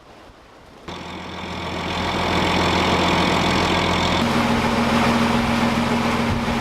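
A boat's engine running steadily, swelling in over the first couple of seconds after a quiet start, with its tone shifting about four seconds in.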